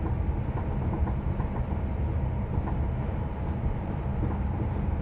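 Inside a passenger train crossing the Øresund Bridge: a steady low rumble from the wheels and running gear, with a few faint clicks.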